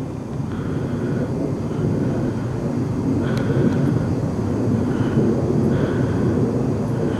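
Distant jet aircraft rumbling steadily overhead.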